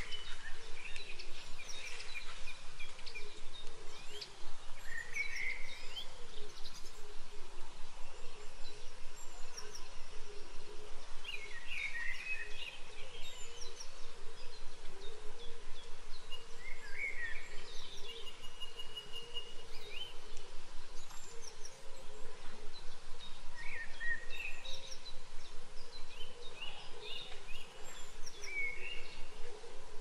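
Wild birds singing: short, bright phrases every few seconds over a continuous low background of calls.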